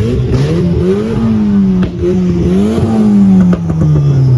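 A car engine being revved: the engine note climbs and drops twice, then falls away in one long glide as the revs settle.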